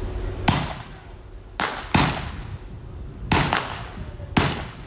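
Staged western gunfight with blank-firing guns: about six sharp shots over four seconds, two of them in quick pairs, each with a short echo.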